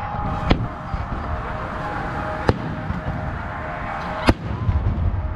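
Aerial firework shells bursting: three sharp bangs, about half a second, two and a half seconds and four seconds in, over a steady low rumble.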